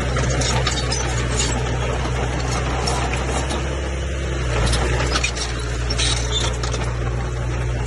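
Komatsu bulldozer's diesel engine running steadily at a low drone, with scattered clanks and rattles over it.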